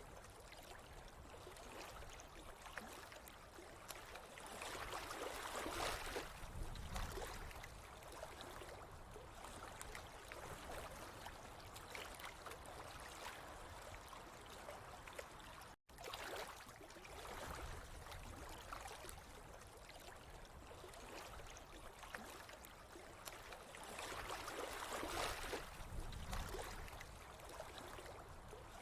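Steady running water, swelling louder about a fifth of the way in and again near the end, with a momentary dropout a little past halfway.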